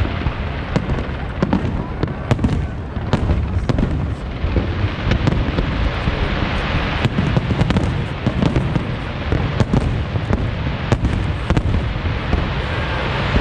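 Aerial fireworks display: many sharp bangs and crackles in quick succession over a continuous low rumble.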